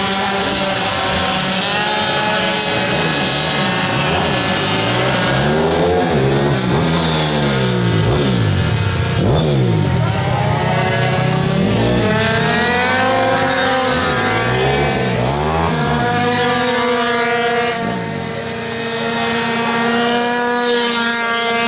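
Several minimoto pocket bikes' small two-stroke engines racing round the track at high revs. Their pitches rise and fall as the bikes pass, brake and accelerate, with overlapping engines, and they settle to a steadier drone near the end.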